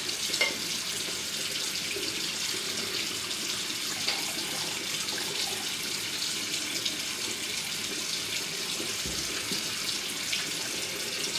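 Water running steadily, with a few faint knocks.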